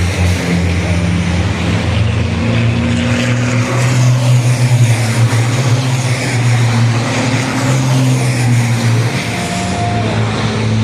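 Racing trucks' diesel engines running loud, their pitch stepping up and down a few times.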